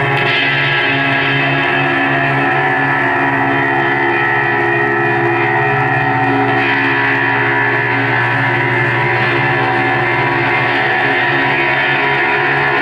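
Live band music: a loud, dense drone of many sustained, layered tones that holds steady throughout, with guitar in the mix.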